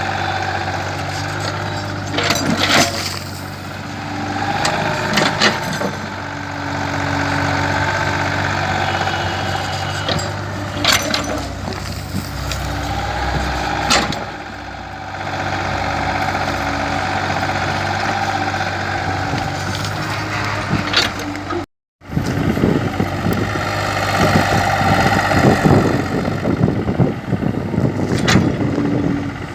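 Kobelco excavator's diesel engine running steadily, with a higher tone that swells and fades as it works and several sharp clanks. The sound cuts out for a moment about two-thirds through.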